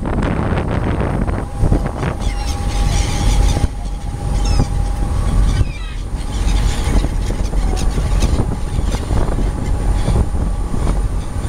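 Steady low rumble of a boat engine and wind on the microphone, with a few short high seagull cries about a third of the way in.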